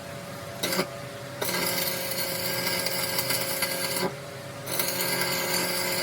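A power tool working metal, sounding in two runs of about two to three seconds each after a brief first touch, over a steady machine hum.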